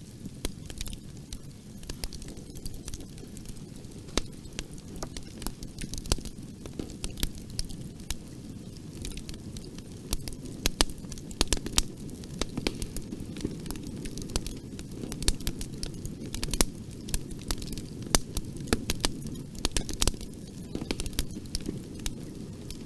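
Wood fire burning in a fireplace: a steady low rumble of flames with irregular sharp crackles and pops, growing denser and louder about halfway through.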